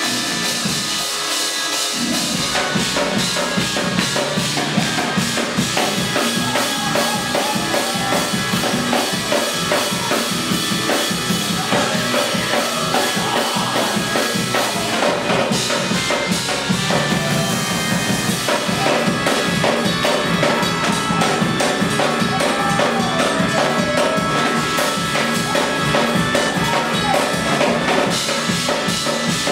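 Upbeat band music driven by a full drum kit, with bass drum and snare, over sustained pitched instruments. The drums come in about two seconds in.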